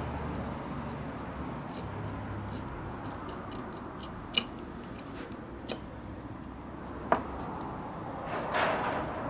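A few sharp clicks and knocks, three in all, over a steady low hum, with a brief rustling scrape near the end.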